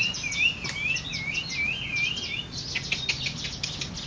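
Songbird in full song: a wavy whistled phrase repeated several times, then a fast run of sharp chirps over the last second and a half.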